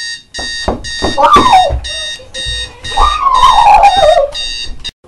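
Electronic alarm clock beeping in quick pulses, about two a second, cutting off abruptly near the end. Over it come two long whines falling in pitch, the second one longer.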